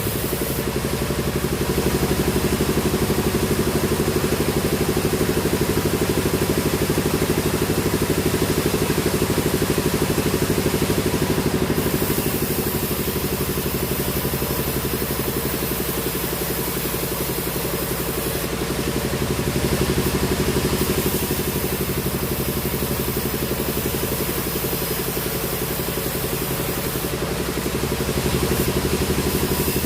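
Sawmill machinery running steadily: an engine-like drone with a fast, even pulse and a hiss above it that thins and returns a few times.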